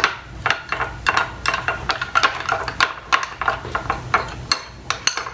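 A spoon stirring white glue with foam beads in a bowl, knocking and scraping against the bowl in quick, irregular strokes, several a second.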